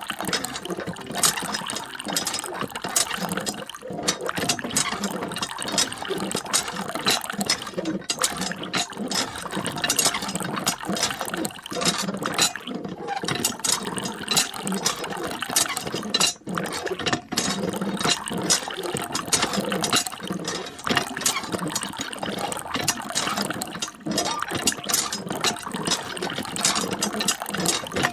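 A small geared mechanism clicking and clattering rapidly and unevenly.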